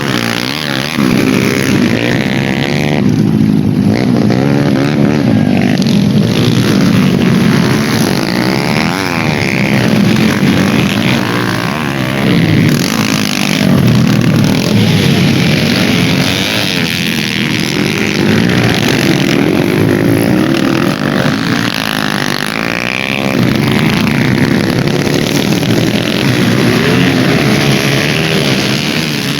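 Dirt-bike engines racing and revving, their pitch rising and falling continuously as the bikes accelerate and pass.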